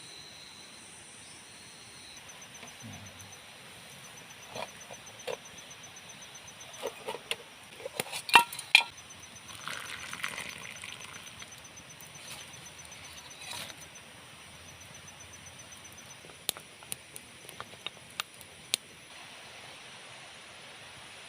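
Scattered sharp wooden knocks and taps from working wood by hand, the loudest two close together about eight seconds in and a quick run of lighter taps near the end. Behind them, a steady high-pitched buzz with a fast pulsing chirp.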